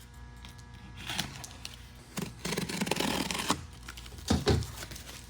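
Cardboard packaging being opened and handled: irregular rustles, scrapes and clicks, busiest around the middle, with a knock near the end.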